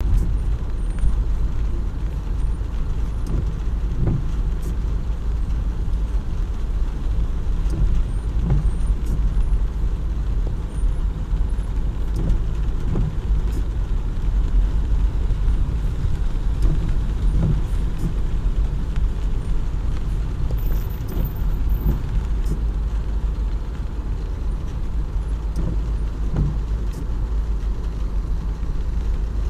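Steady road traffic rumble in the rain, with a heavy low rumble throughout and a few faint ticks.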